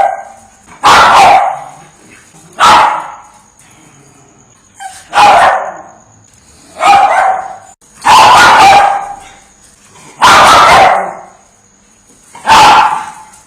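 A dog barking: single loud barks, each with a short fading tail, about every one and a half to two seconds, seven in all.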